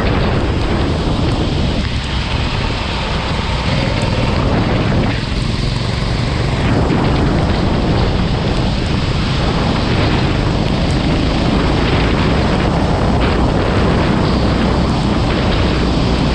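Go-kart running on a wet track: engine noise buried in a loud, steady rush of wind and water spray.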